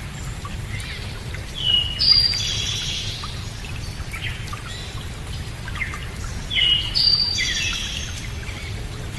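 A songbird sings the same short phrase of several quick descending notes twice, about five seconds apart, with a few scattered chirps, over a steady low rushing noise.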